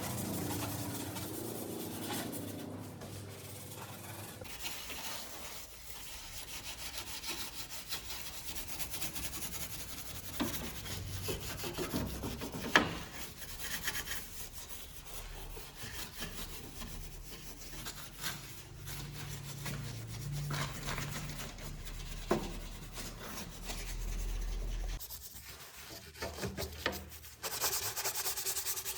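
Rubbing and scrubbing on engine-bay surfaces during a waterless engine clean, with scattered sharp knocks, the loudest about 13 seconds in.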